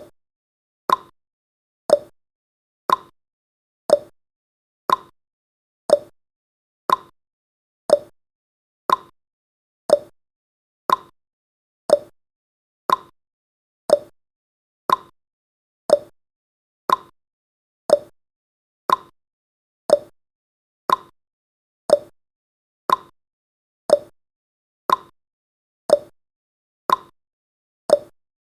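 Clock tick-tock sound effect: one short tick every second, alternating between a higher tick and a lower tock, with silence between.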